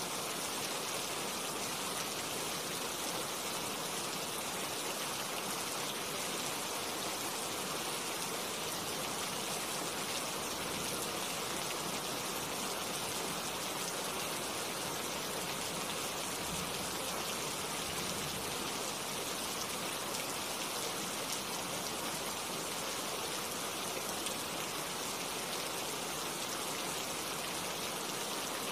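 Steady rain falling on tree leaves: an even, continuous hiss with no pauses or thunder.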